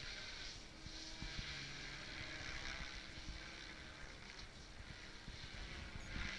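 Electric RC helicopter (SAB Goblin 700) flying at a distance, its rotor whoosh swelling over the first few seconds and easing off, with wind rumbling on the microphone.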